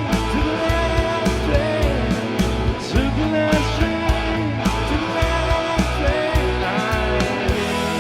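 1980s rock band playing: electric guitar over bass and a steady drum beat, with a gliding melody line.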